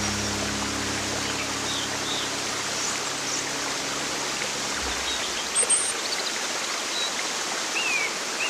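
Steady rushing water of a forest stream, with short high bird chirps now and then. A low held music chord fades out about halfway through.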